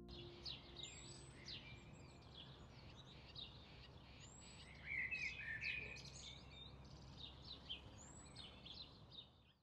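Faint birdsong: many birds chirping and calling over a steady low background rumble, with a louder flurry of chirps about five seconds in. It cuts off abruptly at the end.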